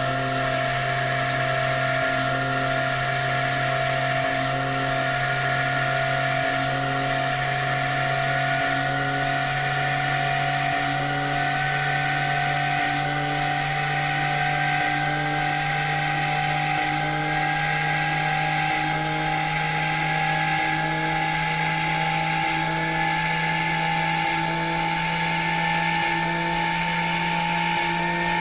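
CNC machine's spindle motor running with a steady whine that rises slowly in pitch, with a faint regular tick about every two seconds.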